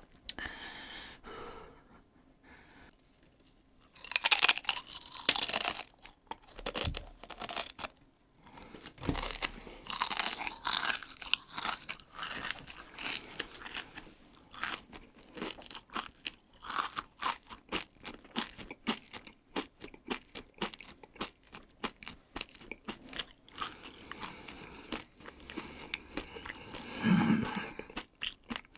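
A chip being chewed close to the microphone: many short, crisp crunches, with a louder stretch about four seconds in. Near the end there is a short, low, muffled hum.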